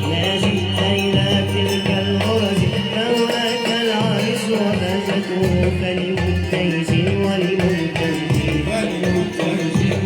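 Libyan malouf ensemble playing: hand drums keep a steady rhythm under a wavering melodic line.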